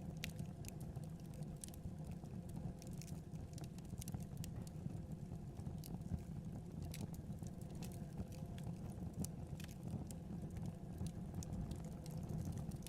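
Wood fire burning in a fireplace: a steady low rumble of flames with frequent small crackles and pops at irregular intervals.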